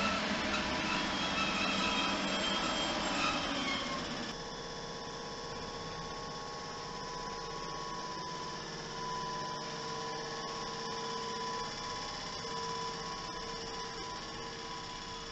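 A train running through the station, rumbling with high squealing tones over it; about four seconds in the sound drops suddenly to a quieter rumble with a high whine that comes and goes.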